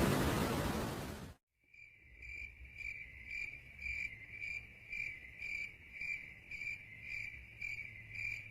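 Rain and thunder noise fading, then cut off abruptly about a second and a half in; then a cricket chirping steadily, about two high-pitched pulses a second.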